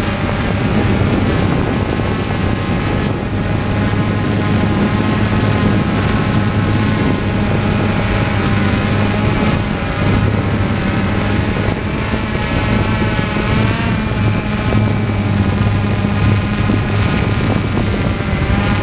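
Propeller aircraft noise: a steady low hum with a higher whine above it that wavers in pitch.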